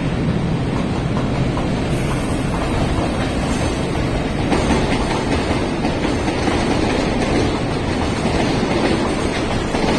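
Freight train hauled by an EF210 electric locomotive rolling past, with a steady, loud noise of wheels running on the rails.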